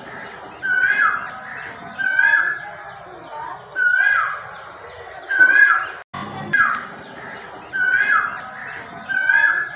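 A bird calling over and over, a short call about every second and a half, each starting high and dropping in pitch.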